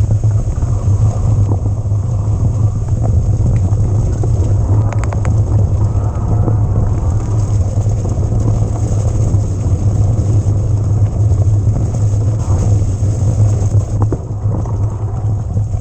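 Riding noise from an electric mountain bike on an action camera: a steady wind-and-tyre rumble over rough ground, with a few sharp knocks and rattles about five seconds in and again near the end.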